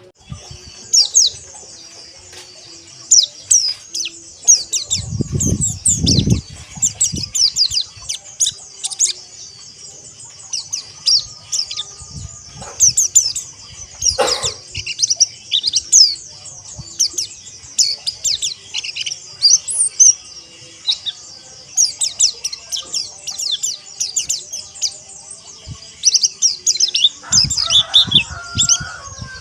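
A flock of white-eyes (pleci) chirping together in a dense, continuous chorus of high, quick twittering notes. Low thumps come about five seconds in and again near the end.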